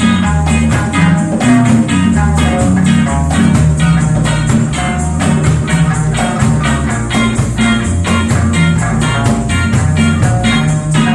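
Live band playing a reggae-style song, with a bass line, drums and strummed plucked strings keeping a steady beat.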